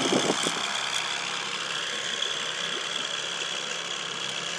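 Boat motor running steadily at low trolling speed, with a faint steady high whine over it.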